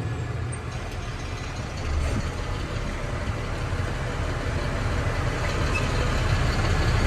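International WorkStar 7400 truck's diesel engine running, heard from inside the cab, with a single knock about two seconds in and the engine growing gradually louder toward the end.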